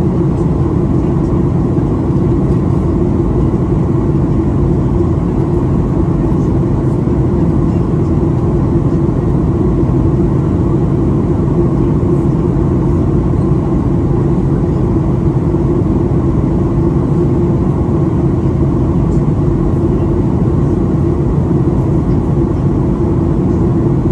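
Steady cabin noise inside a Boeing 737-800 in descent: a constant low rumble of its CFM56-7B turbofan engines and the airflow over the fuselage, with an even hum underneath.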